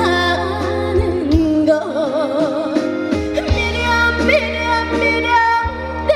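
Trot song performed live: a woman singing with wide vibrato over loud amplified backing music with a steady bass.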